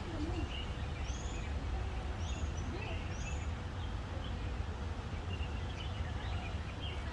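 Birds chirping: a few short, high, arched calls repeated about once a second in the first half, with scattered softer chirps throughout, over a steady low rumble of background noise.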